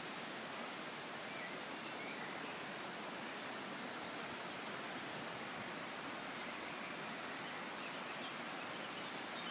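Steady, even rushing of wind outdoors, with a couple of faint bird chirps about two seconds in.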